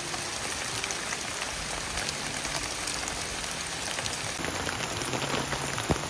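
Steady rain falling, a constant hiss dotted with many separate drop ticks, one sharper drop near the end.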